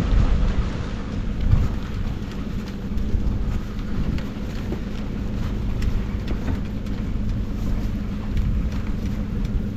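A car driving: steady engine and road rumble with a low hum, and scattered light ticks over it.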